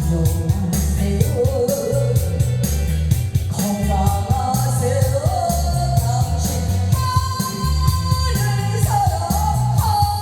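A singer performing a Korean trot song, holding and sliding between long notes over accompaniment with a steady beat.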